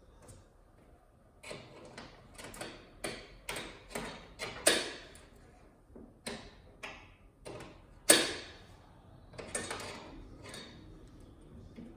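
Irregular sharp clicks and taps of small metal parts and hand tools against a flat-screen TV's housing, the loudest about five and eight seconds in.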